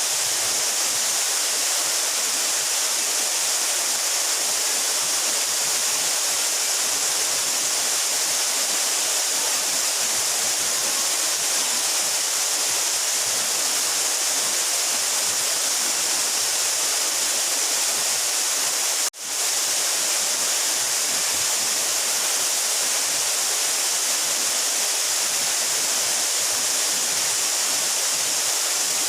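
A 12-metre mountain waterfall falling steadily, an even hiss of water heaviest in the upper range. The sound drops out for an instant about two-thirds of the way through.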